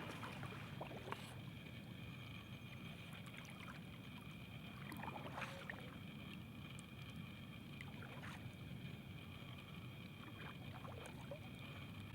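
Quiet on-the-water sound from a kayak: water moving against the hull, a few brief splashes or knocks, and a steady high-pitched hum in the background.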